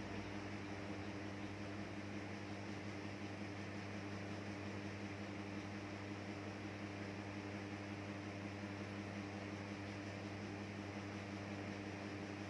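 Steady low electrical hum with a constant hiss behind it, unchanging throughout; no birdsong.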